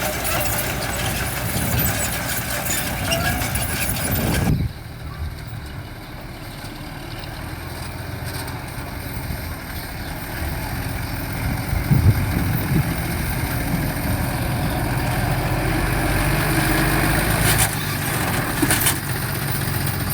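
Diesel engines of heavy construction machinery running, a steady low hum. The sound changes abruptly about four and a half seconds in.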